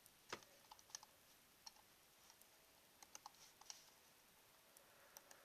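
Near silence broken by a few faint, scattered clicks of computer keys, irregularly spaced.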